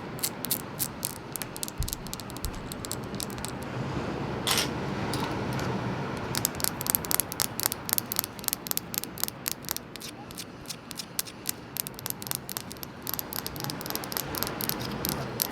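Tapping on seashells: rapid, irregular clicking taps, sparse at first and quickening into dense runs about six seconds in, over a steady hiss of ocean waves.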